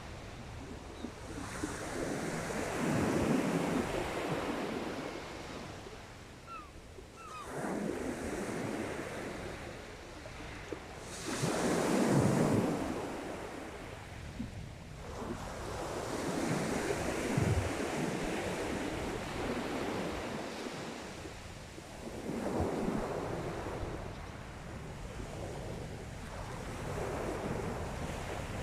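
Sea waves breaking and washing on the shore in slow surges, one swelling up every four to five seconds, with wind rumbling on the microphone underneath.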